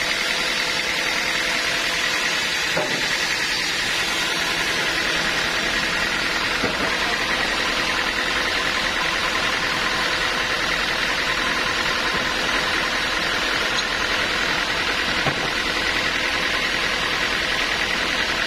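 Sawmill machinery running steadily: an engine-driven saw rig giving a constant mechanical hum with a faint steady high tone, unchanging throughout.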